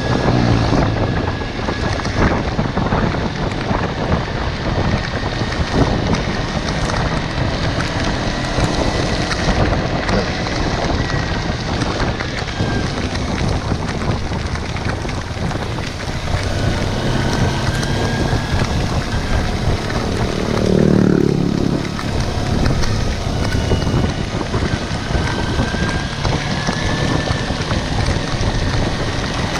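Kawasaki Versys-X motorcycle riding along, with a steady rush of wind noise on the microphone over the engine and tyres. About two-thirds of the way through, one sound sweeps down in pitch.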